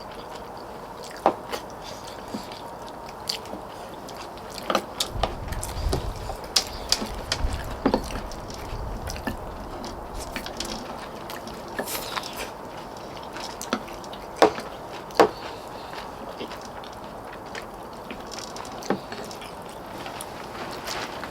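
Eating sounds: utensils clicking and knocking against dishes at irregular intervals, with chewing. A brief low rumble comes about five seconds in and lasts a few seconds.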